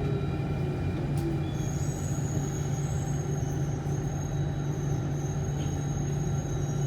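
Alstom C830 Circle Line metro train running, heard onboard: a steady low rumble, with a tone falling in pitch in the first second and a thin high whine setting in about a second and a half in.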